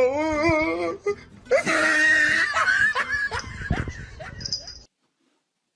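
A person laughing hard, a wavering, high-pitched laugh in bouts, cutting off to silence about a second before the end.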